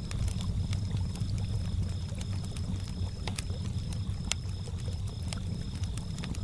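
Lake water lapping in a steady low wash, with sharp scattered pops of a crackling campfire and a cricket chirping in quick high pulses.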